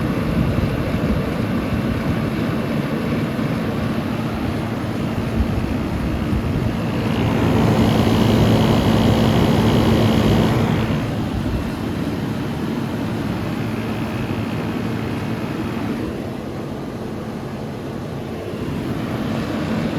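Vintage Carry Cool 5,000 BTU window air conditioner running with its compressor on. A steady compressor hum sits under the whoosh of its fans, with the outdoor condenser fan plainly heard. It swells louder for a few seconds in the middle.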